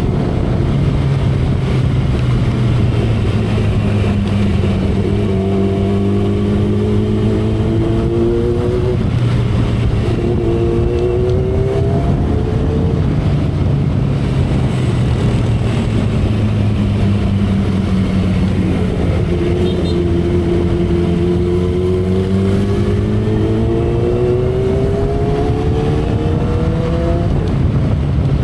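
2012 Kawasaki Ninja ZX-10R inline-four engine and exhaust running at expressway cruising speed under heavy wind noise, heard from the rider's seat. The engine note sags and climbs slowly in pitch a few times.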